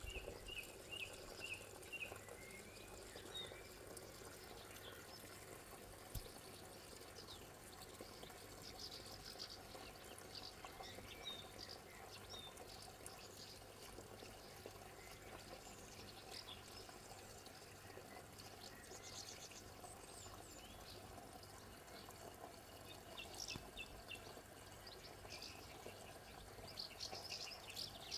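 Faint outdoor ambience with small birds chirping now and then: a quick run of short notes near the start, then scattered chirps through the rest.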